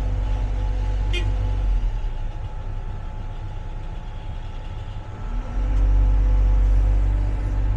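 Excavator's diesel engine running steadily with a faint hydraulic whine, then rising under load for the last couple of seconds.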